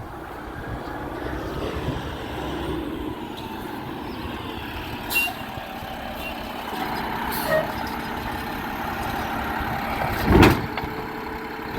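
Garbage truck's diesel engine running with a steady low rumble that builds slightly, with a few short sharp noises and a louder brief burst near the end.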